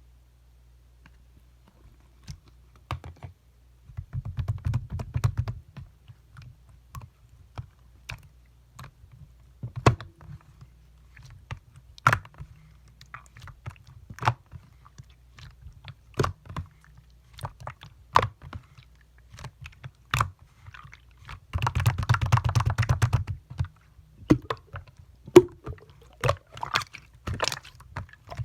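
Clear, colourless slime being squeezed and stretched by hand: scattered sharp clicks and pops of trapped air, with two denser runs of crackling, about four seconds in and about twenty-two seconds in.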